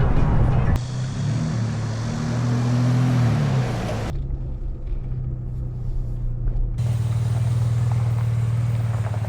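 Small Honda 2.3 hp outboard motor running with a steady low drone. Its pitch rises and falls once, about two to three seconds in. The sound changes abruptly a few times and cuts off suddenly at the end.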